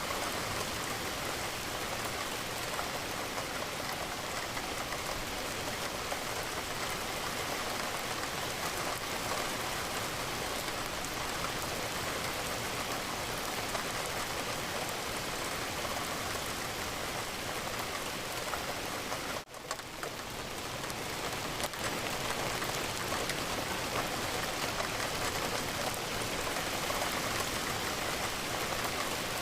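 Steady rain falling, an even patter of drops. About twenty seconds in, the sound dips out for an instant and swells back up.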